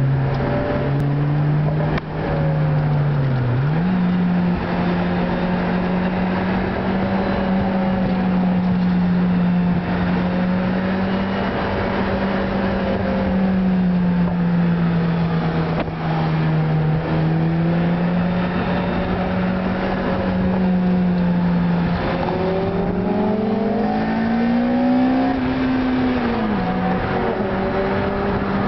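Lotus Elise's four-cylinder engine pulling along at steady road speed, heard from inside the cabin over road noise. The engine note dips and jumps back up about three seconds in, and near the end the revs climb and then drop back sharply at a gear change.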